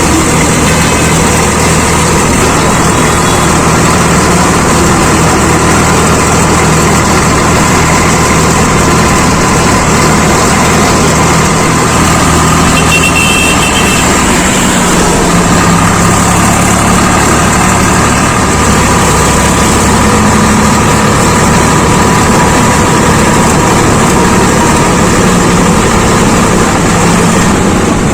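Diesel tractor engine running steadily, its engine note changing about halfway through.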